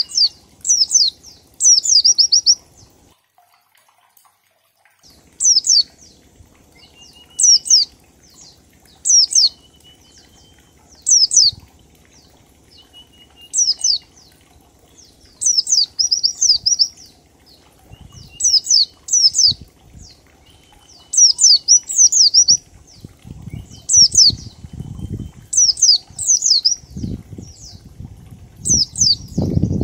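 White-eye (pleci) singing in the ngalas style: short, sharp notes sliding downward, in clusters of one to four, repeated every second or two, with a faint thin whistle between the clusters. Low thumps come in over the last several seconds.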